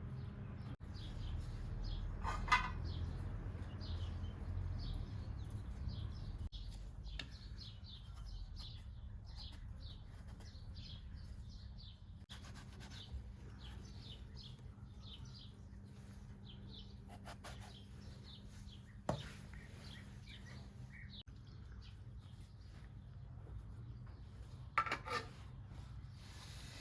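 Small birds chirping over and over over a low steady hum, with a few short clatters of cookware.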